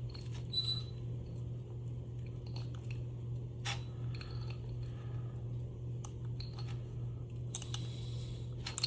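Scattered small metallic clicks and clinks of hand tools against motor parts, over a steady low hum. One clink about half a second in rings briefly.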